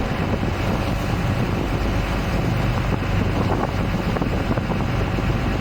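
Tour boat's engine running steadily under way, a low even hum, with wind blowing on the microphone.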